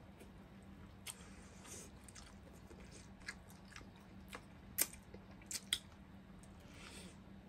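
Close-miked eating: quiet chewing and biting with scattered sharp clicks and crunches, the loudest a little past the middle, over a faint steady hum.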